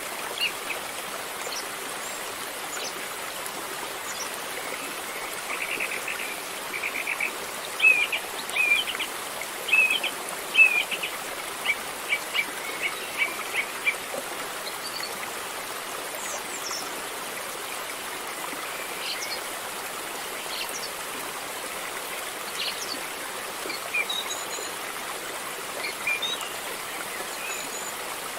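Flowing river water, a steady rushing hiss, with birds chirping over it. The chirps come in a busy run of short calls from about six to fourteen seconds in, then a few scattered ones later.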